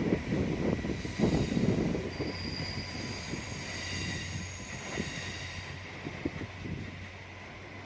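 A train running through a station, its wheels squealing on the rails with several thin high tones and scattered knocks of wheels over rail joints, growing fainter as it goes.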